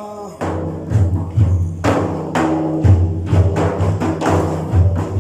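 Frame drums (dafs) beating a steady rhythm, loud booming strokes about twice a second.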